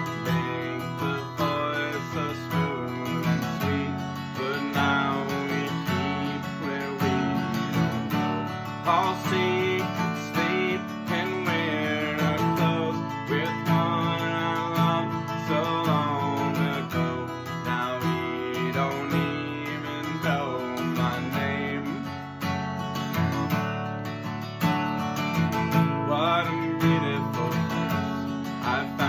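Music: a strummed acoustic guitar carrying the song, with a melody line over it that glides up and down in pitch now and then.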